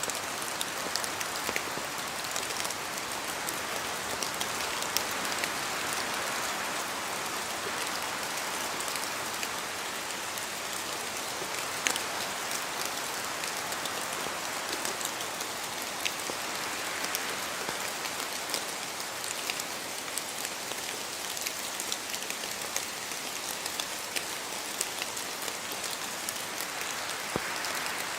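Steady rain in a forest, with many separate drops ticking as they fall from the trees. The rain's hiss swells and fades every several seconds as the wind gusts.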